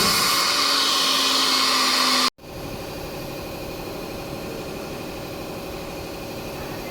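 Two-process CNC router running: a loud steady hiss of the machine at work, which cuts off suddenly about two seconds in and gives way to a quieter, steady hum with several held tones.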